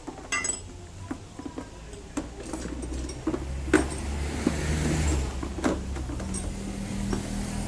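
Scattered clicks, knocks and clinks of tools and scooter parts being handled during disassembly, over a low hum that swells in the middle.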